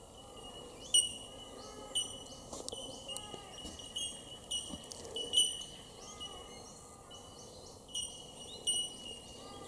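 Rainforest birds calling: many short, high chirps and whistles from several birds throughout, over a faint steady insect hum. A couple of sharp clicks come about one and two seconds in.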